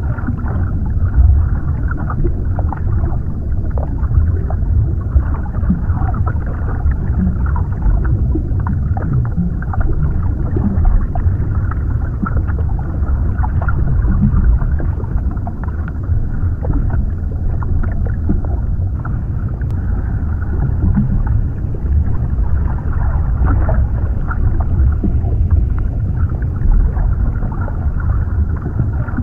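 Underwater ambience: a steady, muffled low rumble of water with small bubbling crackles throughout, dull and with nothing high-pitched.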